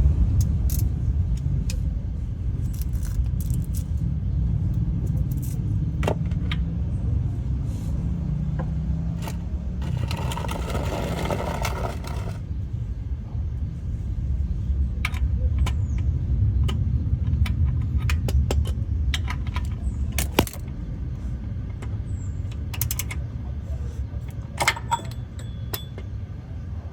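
Scattered light metallic clinks and taps over a steady low rumble, with a brief hiss about ten seconds in that lasts roughly two seconds.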